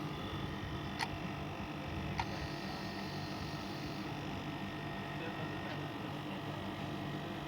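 Split air conditioner running with a steady hum while being charged with refrigerant. Two short sharp clicks about one and two seconds in.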